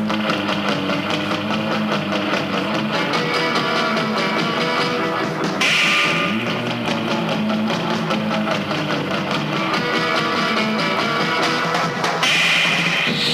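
1960s surf rock instrumental played from a 7-inch vinyl single: twangy, reverb-heavy electric guitar over a steady beat.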